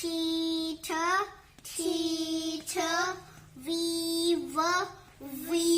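A high-pitched voice chanting English phonics letter sounds in a drill: four pairs of drawn-out syllables, each a long level note followed by a short rising one.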